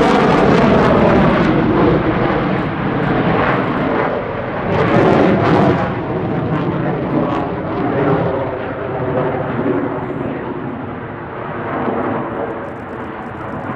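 Jet noise of a CF-18 Hornet's two General Electric F404 turbofans as the fighter flies past. It is loud at first, swells briefly about five seconds in, then fades gradually as the jet draws away.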